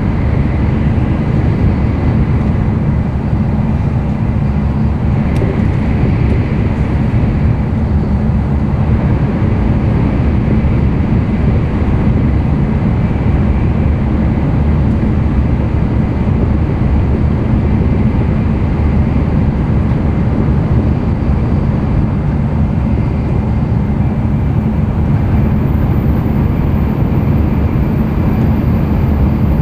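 N700-series Shinkansen running, heard inside the passenger car: a steady, loud low rumble of the train in motion.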